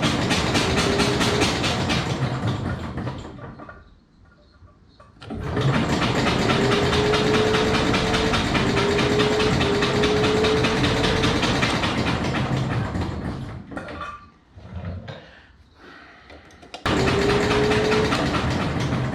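Simplicity Landlord garden tractor engine being turned over by its electric starter in three cranking bursts, the starter's whine rising slightly in each, without the engine ever firing: the ignition is producing no spark.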